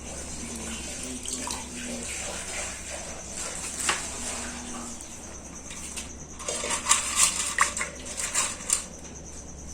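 Water being poured into a small glass fish bowl, splashing and trickling, with a burst of louder splashes about two-thirds of the way through.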